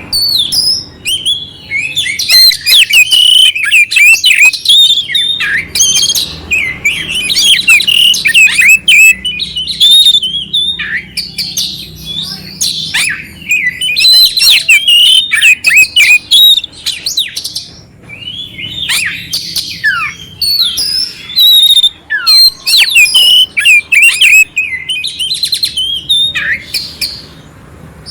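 Oriental magpie-robin (kacer) singing loudly in long runs of rapid, varied whistles mixed with harsh, rough chattering notes, broken by a few short pauses.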